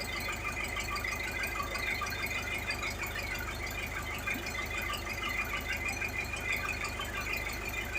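Fishing boat's engine running steadily, a low drone with a high whine over it.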